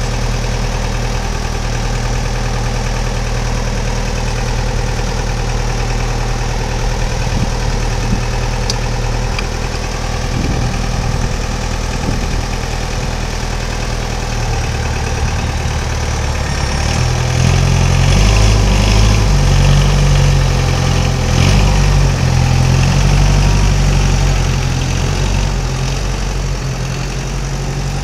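Diesel engine of a Charlatte CBL 2000D conveyor belt loader idling steadily, then running faster and louder from about halfway through, its pitch shifting up and down for several seconds before easing back toward idle.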